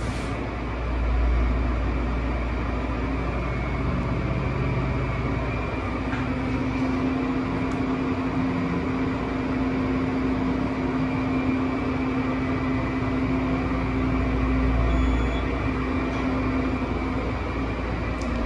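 Elevator cab travelling between floors: a steady mechanical hum with a low rumble, and a steady whine that comes in about six seconds in and drops away near the end.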